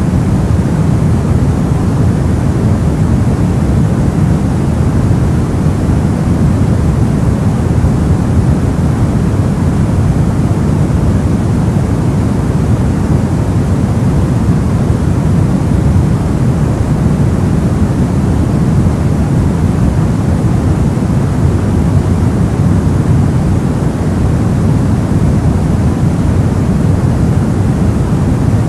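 Soft white noise: a steady, even hiss weighted toward the low end, heard as a deep, smooth rush with no changes.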